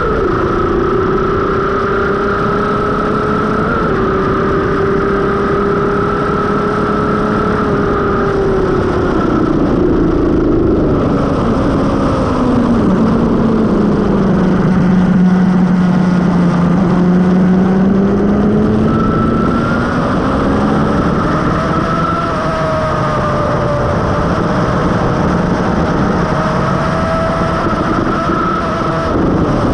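Suzuki GSX-R750 K5's inline-four engine with a Mivv carbon exhaust at speed on track: held at high revs, then the revs fall away for several seconds in the middle before climbing steadily again. Wind rush on the microphone throughout.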